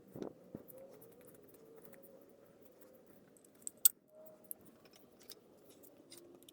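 Small fan parts being handled and fitted by hand during reassembly of an antique table fan: a dull knock at the start, scattered light clicks and taps, and one sharp click a little under four seconds in.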